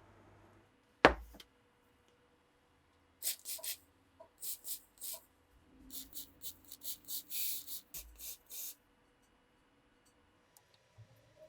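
Hand work on an old pistol: one sharp knock about a second in, then a run of short, high scraping strokes from about three seconds in until near the end.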